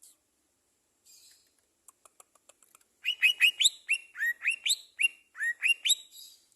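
A songbird singing a fast series of short, sharply rising chirps, about three or four a second, beginning about three seconds in after a few faint clicks.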